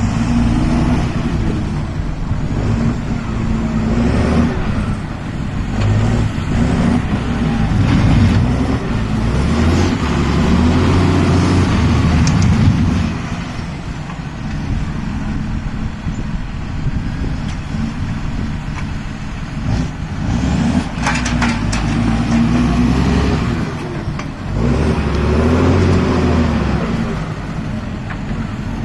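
John Deere 6930 tractor's six-cylinder diesel engine running under load while handling a bale shredder, its pitch and loudness rising and falling several times. A few short sharp knocks come about three-quarters of the way through.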